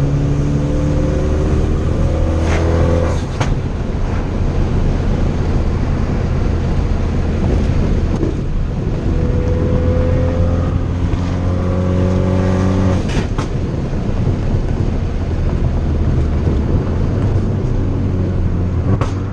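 2013 Fiat 500 Abarth's turbocharged 1.4-litre four-cylinder pulling hard, its pitch rising twice and cut off suddenly about 3 seconds in and again about 13 seconds in, with short sharp cracks as the throttle closes. Between the pulls the engine runs at a steadier note.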